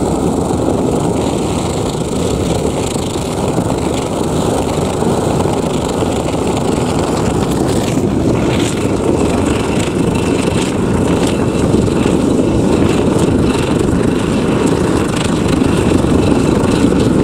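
Oil-fired melting furnace burning with its air blower, a steady rushing noise. It is burning unfiltered oil, which is giving trouble.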